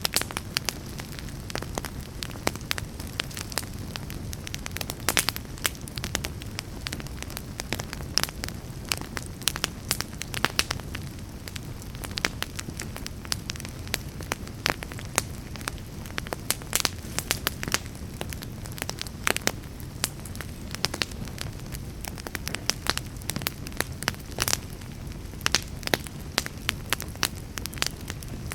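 Wood fire burning in a fireplace, crackling steadily with frequent, irregular sharp pops and snaps over a low, even rumble of flames.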